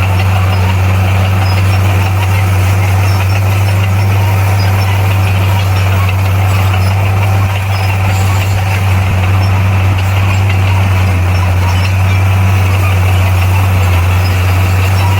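Bulldozer's heavy diesel engine running steadily with an even, deep drone, dipping slightly for a moment about halfway through.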